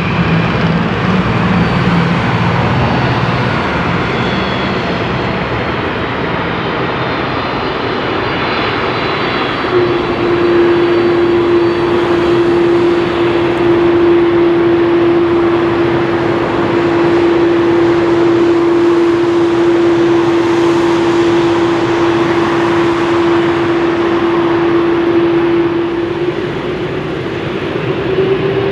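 Jet engines of a Boeing 767-300ER running on the ground, a loud steady noise. From about a third of the way in, a steady whine holds, then begins to rise in pitch near the end.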